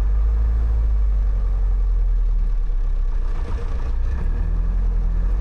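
Light single-engine airplane's piston engine idling while taxiing, a steady low drone heard from inside the cockpit.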